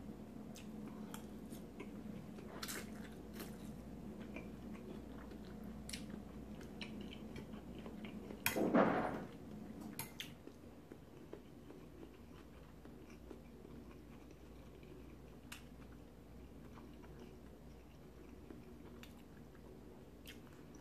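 Close mouth sounds of a person chewing a forkful of pasta salad, with scattered faint clicks. One brief louder sound from the eater comes about nine seconds in.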